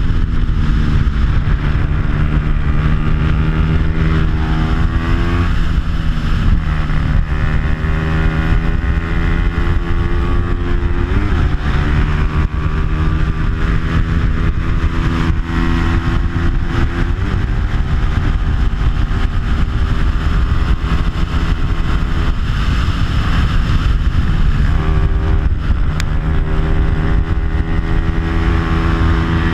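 Onboard sound of a Bajaj Pulsar 200's stock single-cylinder four-stroke engine with an aftermarket exhaust, racing at full throttle. The pitch climbs steadily and drops several times at gear changes and braking, over a steady rush of wind.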